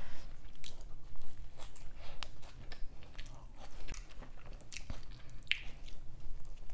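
Close-miked chewing and biting of a fast-food burger: irregular wet mouth clicks and smacks, with a fresh bite taken near the end.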